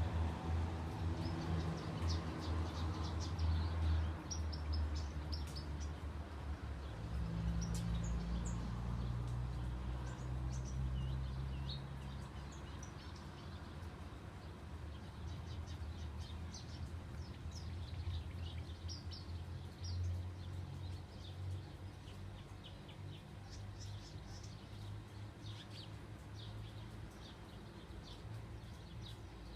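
Birds chirping: many short high notes in irregular runs over a steady low rumble, which is louder in the first half.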